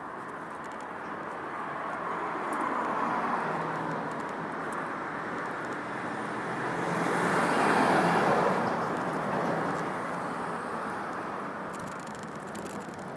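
Road traffic: a car passes about three seconds in, and a second, louder one passes about eight seconds in, each swelling and fading away.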